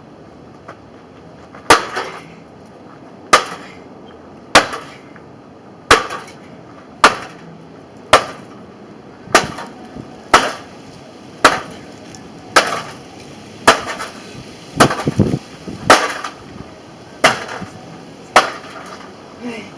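A microwave oven being struck over and over, about sixteen hard blows roughly a second apart, each a sharp bang of metal and glass with a brief rattle. A quicker cluster of knocks and clattering comes a little past the middle.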